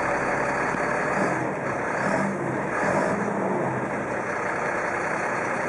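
2007 GMC TC7C042 bucket truck's engine running steadily.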